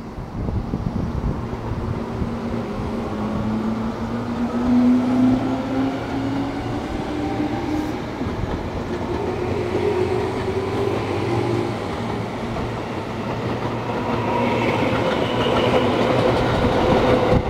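Tobu 10030 series electric train running close by, its motors giving a whine that rises slowly in pitch as it picks up speed, over the rumble and clack of its wheels on the rails.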